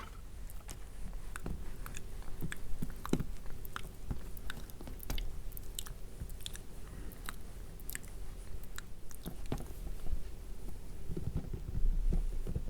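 ASMR mouth sounds close to the microphone: irregular wet clicks and lip smacks, with some soft low thumps near the end.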